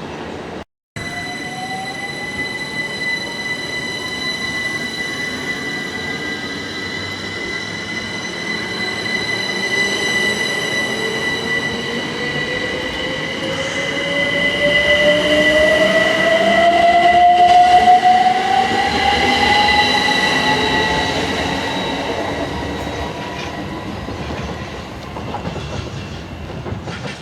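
A passenger train moving through the station, with a steady high squeal and a whine that rises slowly in pitch as the train gathers speed. It grows loudest about two-thirds of the way through, then fades as the train moves away.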